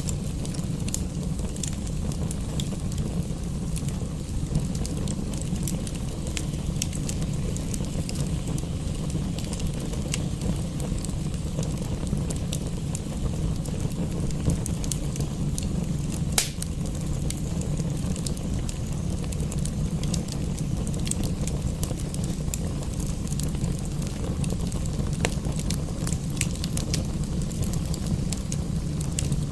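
Wood fire crackling in a fireplace: scattered sharp snaps and pops over a steady low rumble, with one louder pop a little past halfway.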